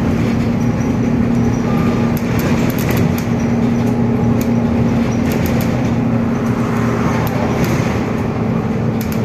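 Inside a moving city bus: a steady drone from the engine and drivetrain, with one constant humming tone, and scattered small clicks and rattles from the cabin fittings.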